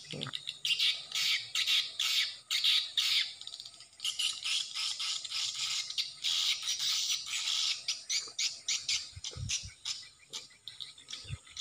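Swiftlet calls: rapid, high-pitched twittering chirps in quick series with short breaks, of the kind played from a swiftlet house to draw the birds in. A few low thumps come near the end.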